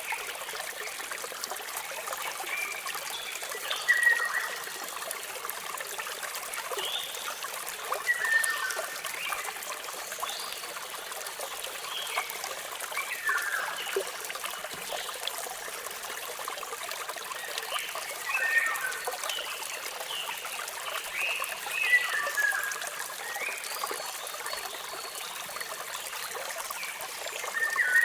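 Waterfall water running in a steady hiss, with birds chirping in short bursts of a few quick notes every four or five seconds.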